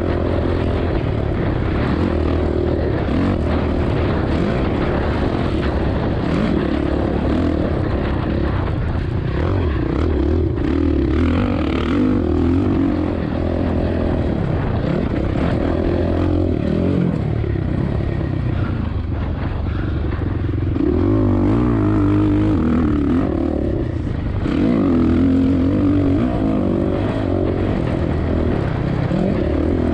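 Suzuki RM-Z450 single-cylinder four-stroke motocross engine revving hard and easing off again and again while being ridden around the track, its pitch rising and falling with the throttle.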